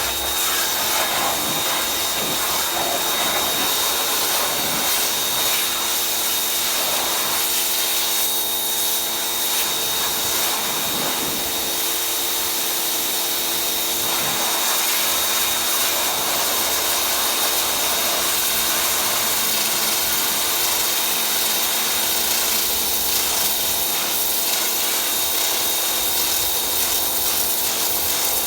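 Pressure washer running steadily, its motor humming under a continuous hiss of water spray as the mud is washed off a dirt bike.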